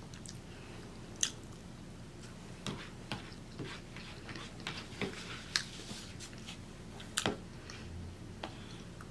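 A person chewing and biting food, with irregular short wet smacks and clicks, the sharpest about seven seconds in.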